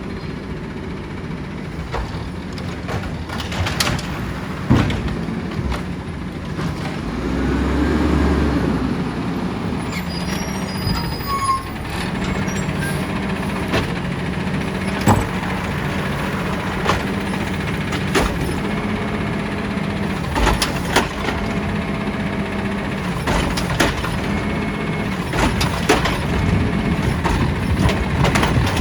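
Side-loader garbage truck's diesel engine running, its pitch stepping up and down as it revs to drive the hydraulic arm, with scattered sharp knocks and clanks of the arm and carts.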